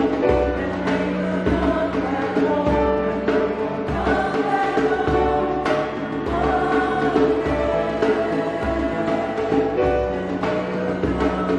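A choir singing, with sustained low instrumental notes underneath that change pitch every second or so.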